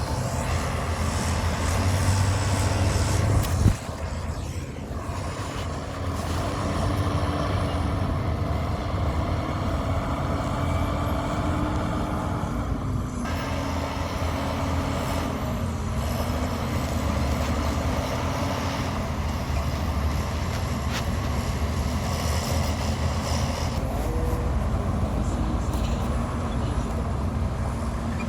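Heavy diesel engines of earthmoving machines, bulldozer and dump trucks, running steadily with the engine pitch rising and falling, and a sharp knock about four seconds in.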